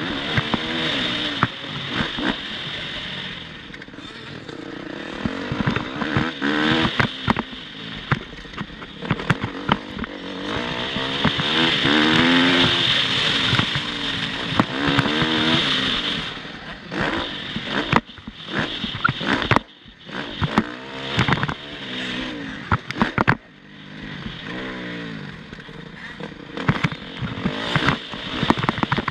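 Motocross bike engine revving hard and falling off again and again as it is ridden around a dirt track, with a long climb in revs about midway. Sharp clattering knocks from the bike on rough ground run through it, over a steady hiss of wind.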